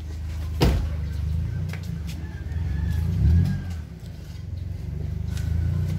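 A vehicle engine idling with a steady low hum that swells briefly about three seconds in. A sharp click comes about half a second in.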